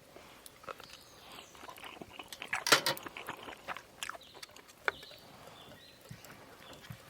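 Light clicks, taps and scrapes of utensils handling food. A louder scraping rustle comes about two and a half seconds in, and a single sharp click just before five seconds.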